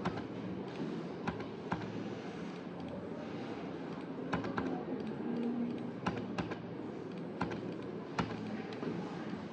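Scattered, irregular keystrokes on a computer keyboard over a steady background room hum.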